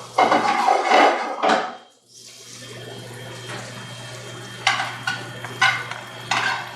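Kitchen utensils and dishes clattering during plating: a loud rushing clatter for about a second and a half, then a few separate sharp clinks over a steady low hum.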